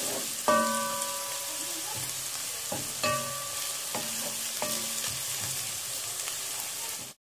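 Onions and ground spices sizzling in hot oil in a non-stick pot while a wooden spoon stirs them, knocking against the pot several times so that it rings briefly; the loudest knock is about half a second in. The sound cuts off abruptly near the end.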